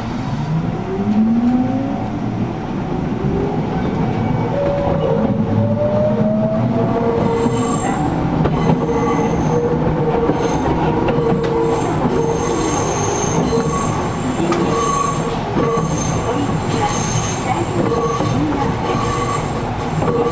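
Gakunan Railway 7000 series electric railcar heard from inside the car. The traction motor whine rises in pitch as the train picks up speed over the first several seconds, then the car runs on steadily with high-pitched wheel squeal coming and going, and the air conditioning running throughout.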